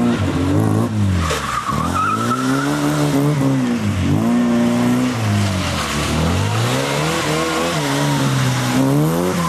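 Small car's engine revving up and dropping back again and again in short bursts, as it is driven hard through an autotest course of tight turns between cones. A brief tyre squeal about two seconds in.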